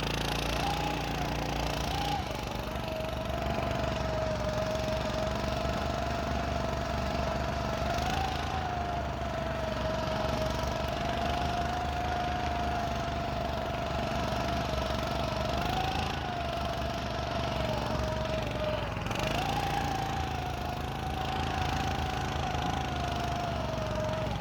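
Motorized snow scooter's small engine running under way through snow, a steady drone with a whine whose pitch rises and falls slightly with the throttle, briefly climbing about a third of the way in, again past the middle, and around three-quarters through.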